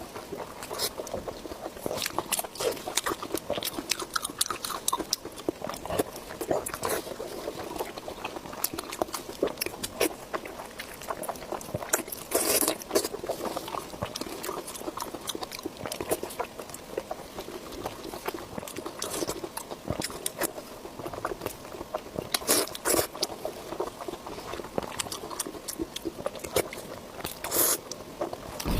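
Close-miked eating sounds: irregular wet chewing, biting and crunching, with a few louder bursts of crunching or slurping.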